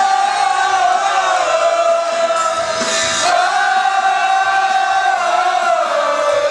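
A rock band playing live, with a singer holding two long notes over the band: the first breaks off about three seconds in, and the second slides down near the end.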